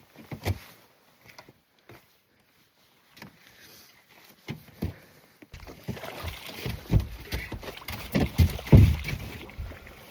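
A few knocks in an aluminum fishing boat, then about four seconds of splashing and thumping as a hooked bass is fought to the boat and landed.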